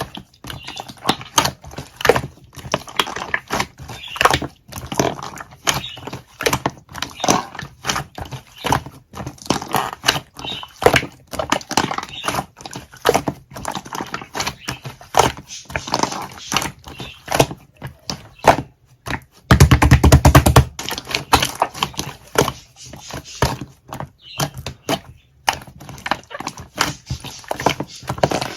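Rapid, irregular sticky clicks and squishes from yellow colouring being mixed into a soft, sticky material, with a loud low rumble lasting about a second some two-thirds of the way through.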